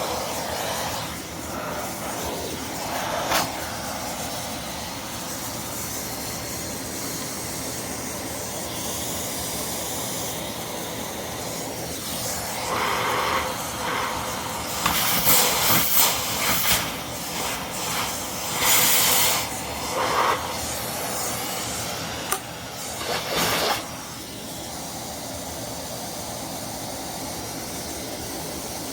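Vacuum cleaner running steadily, with louder rushes of hissing air coming and going between about 12 and 24 seconds in.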